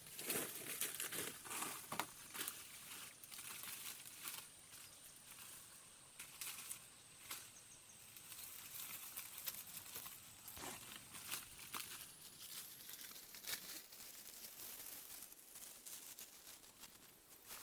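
Dry palm leaves rustling and crinkling as they are handled, with scattered light clicks and knocks. A thin, steady high tone sits in the background and stops about twelve seconds in.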